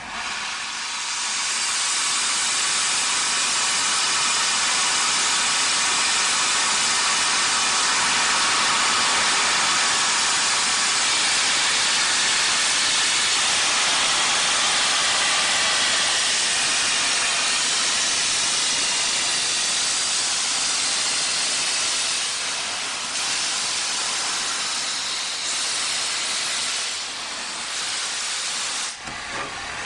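Steam locomotive venting steam in a long, loud, steady hiss. It wavers a few times near the end, then cuts off sharply.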